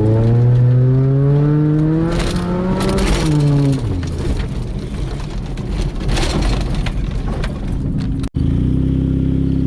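Toyota Tercel's four-cylinder engine, running on gear oil in place of engine oil, revving up steadily as the car accelerates, then easing off into rougher road noise. Near the end it settles into a steady drone at cruising speed.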